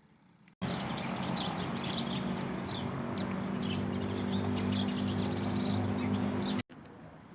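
Many small birds chirping rapidly together over a steady low hum and background noise. The sound cuts in abruptly about half a second in and cuts off just as suddenly about a second before the end.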